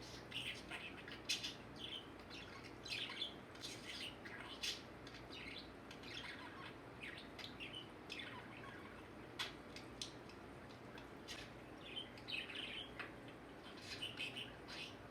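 Pet budgerigar chattering softly to itself: a quiet, irregular string of short chirps and warbles.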